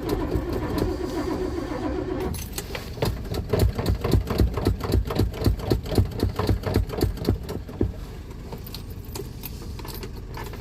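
Cold start of a 1987 Winnebago's 454 V8 after it has sat: the starter cranks the engine over in an even chugging rhythm, about four beats a second, without it catching. The cranking stops about eight seconds in.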